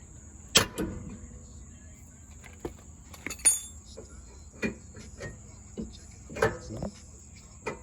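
Scattered clinks and knocks of metal being handled, the sharpest about half a second in and a ringing clink about three seconds in, over the steady high trill of crickets.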